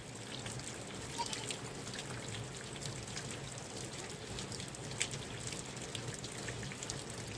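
Rain falling steadily, with many individual drops ticking sharply close by.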